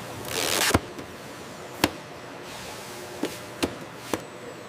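Packaging machinery: a short hiss ending in a sharp click, then a few scattered sharp clicks and taps over a faint steady background.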